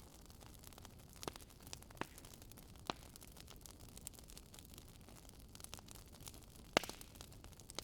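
Firewood crackling as it burns in a fireplace: scattered sharp pops over a faint steady hiss, with a quick cluster of louder pops near the end.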